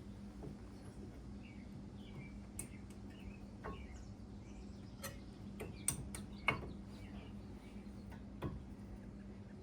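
Scattered light metallic clicks and taps of hand tools on brake parts during a brake job, the loudest pair a little past the middle, over a steady low hum with birds chirping in the background.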